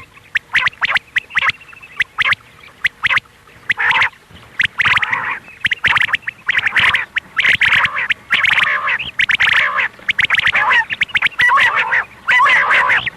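Quail calls played as a hunting lure, most likely the female's call: repeated bursts of rapid, chattering notes with sharp clicks between them.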